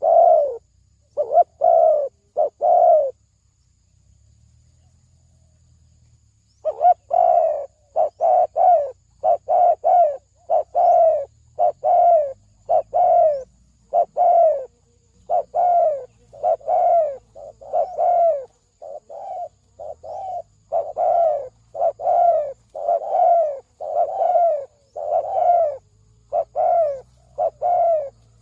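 Spotted dove cooing. A quick run of four coos comes first, then a pause of a few seconds, then a long, steady series of coos, each note dropping slightly in pitch.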